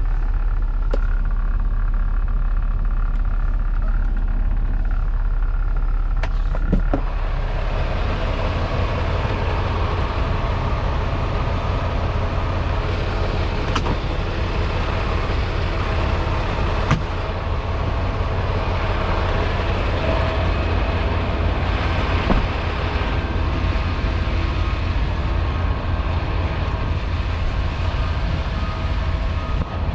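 Semi-truck engine and road noise inside the cab, a steady low rumble that grows fuller and louder about seven seconds in as the truck gets moving.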